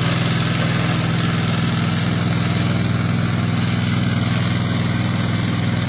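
A steady, loud mechanical hum like an idling engine, even throughout, with a faint wavering high whine above it.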